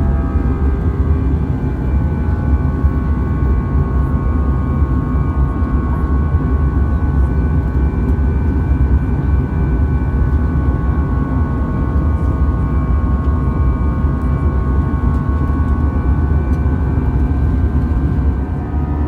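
Cabin noise inside an Airbus A320-214 in flight: a steady low rumble of its CFM56 turbofan engines and airflow, with several steady engine tones humming above it.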